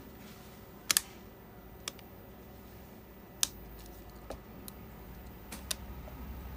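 Scattered sharp clicks and taps of small tools and phone parts being handled during a phone display repair, with a loud double click about a second in and a handful of single clicks after it.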